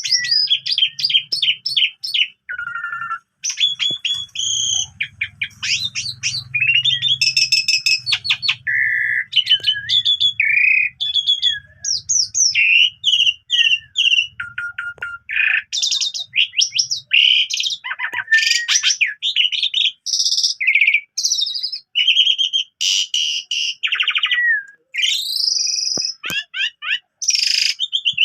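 Asian pied starling (jalak suren) singing without pause: a fast, ever-changing string of whistles, rapid chattering trills and harsh notes. It is in full song with many mimicked phrases, the kind of vigorous singing used as a master recording for teaching canaries.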